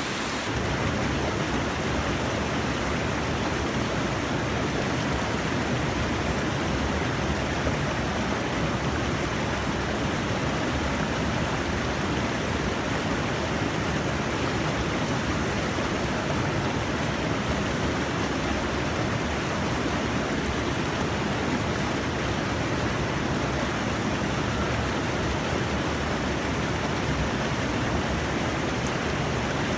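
Steady rush of flowing stream water, an even hiss with no breaks or changes.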